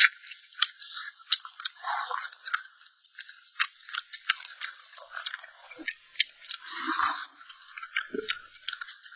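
Close-miked chewing of stewed food, with many sharp, irregular wet mouth clicks and smacks.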